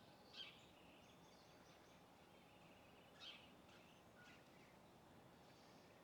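Faint small-bird calls: two short, sharp chirps, one about half a second in and one about three seconds in, with soft twittering between them.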